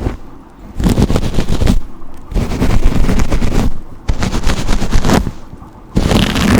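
Brush bristles dragged in slow, close-miked strokes, four in a row, each about a second long with a dense crackling rasp and a short pause between.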